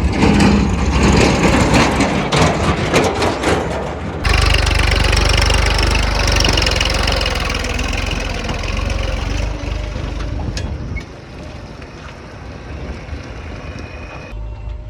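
Heavy diesel machinery, a backhoe loader and a tractor, with engines running steadily through several cut-together shots. The first few seconds hold many knocks and clatter over the engine sound.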